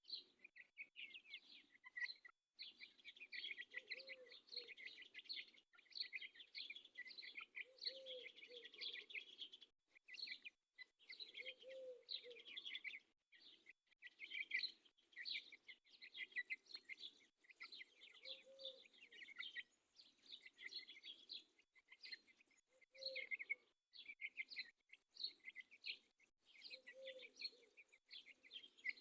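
Faint, dense chirping of many birds, broken by short gaps, with a lower call rising and falling about every four seconds.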